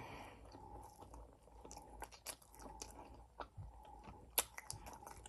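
A person chewing food, faint small mouth clicks scattered throughout, with one sharper click about four and a half seconds in.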